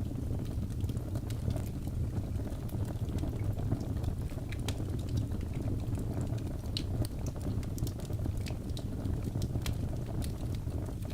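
Logs burning in a fireplace: a steady low rumble of the flames with many small, irregular crackles and pops throughout.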